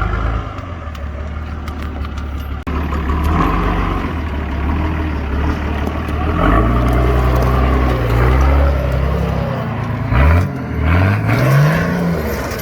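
Four-wheel drive's engine working off-road under load, pulling steadily, then revved hard twice near the end with quick rises in pitch.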